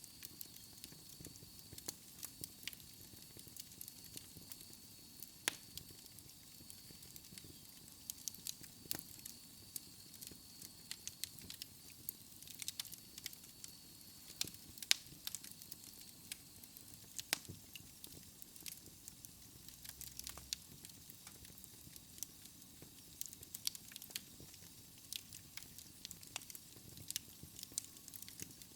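Wood fire burning in a fireplace, crackling with many irregular sharp pops and snaps over a low, steady hiss.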